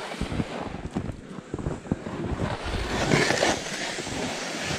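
Wind buffeting the microphone in a snowstorm, a steady rough rumble, with footsteps trudging through deep snow. A louder rustle comes about three seconds in.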